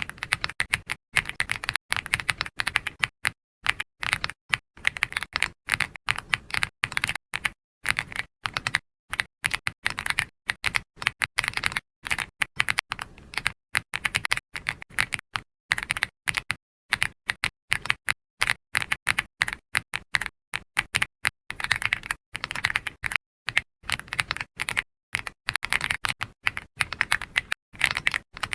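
Computer keyboard being typed on continuously: fast, uneven runs of keystroke clicks with short pauses between bursts.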